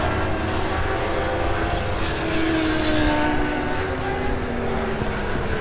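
Superbike racing engines droning on the circuit, their pitch sliding slowly downward in places as bikes pass.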